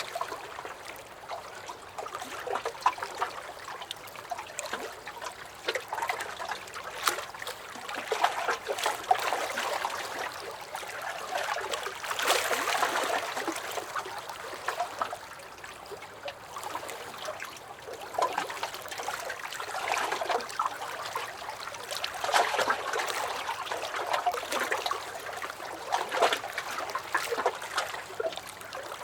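Small lake waves lapping and splashing against a dock, in uneven swells every few seconds with many little splashes.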